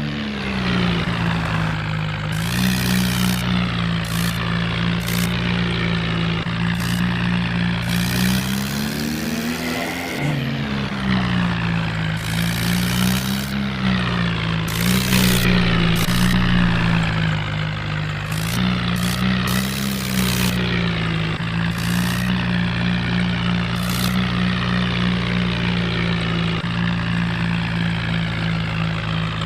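RC toy tractor's engine sound: a steady low, electronic-sounding diesel drone that swells up in pitch about a third of the way in and wavers up and down a few more times, with short hissy bursts scattered over it.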